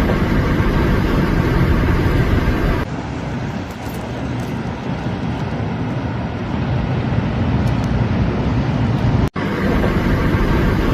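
Steady outdoor vehicle and road noise, heaviest in the low end, broken by two abrupt changes where the sound cuts from one recording to another.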